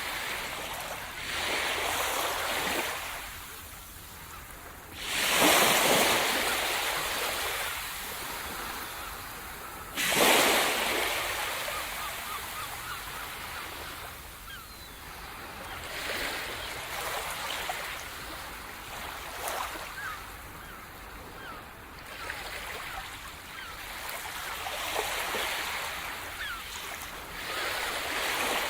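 Sea surf breaking on the shore: waves crash with two strong breaks about five and ten seconds in, each fading into a long hissing wash, with smaller swells rising and falling after.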